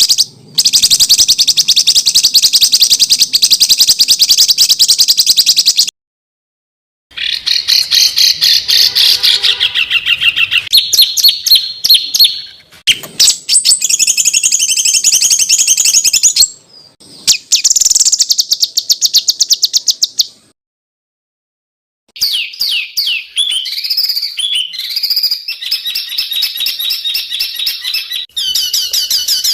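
Songbird song in a rapid-fire run of dense, harsh trills and chattering phrases, edited together from separate recordings. It changes abruptly at several cuts and breaks off twice for about a second of silence. These are masteran tutor songs, the kind used to teach caged competition songbirds.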